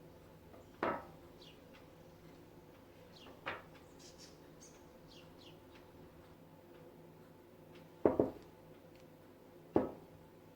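Household objects being handled: separate sharp knocks and clatters, a double one about three-quarters in and another near the end the loudest, over a faint steady hum.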